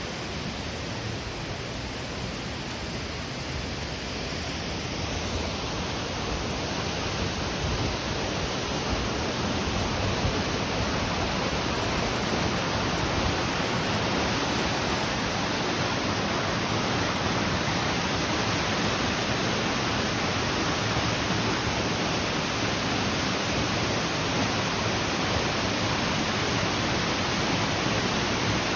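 Waterfall running: a steady rush of falling water that grows louder over the first several seconds, then holds even.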